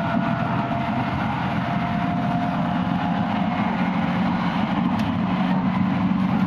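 Running noise inside a JR West 221 series electric train travelling at speed: a steady rumble of wheels on the rails, with a faint whine that fades out within the first two seconds and a single sharp click about five seconds in.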